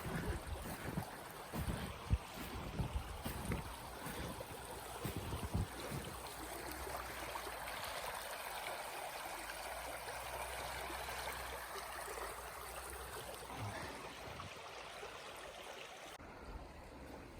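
Small rocky stream babbling steadily, fading a little toward the end. Low thumps on the microphone during the first six seconds.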